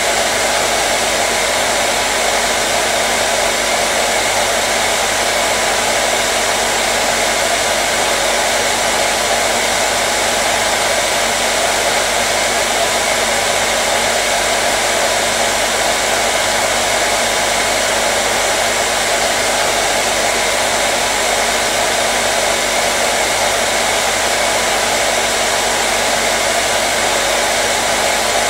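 Hair dryer running steadily, a constant loud blowing hiss with a steady hum from its motor.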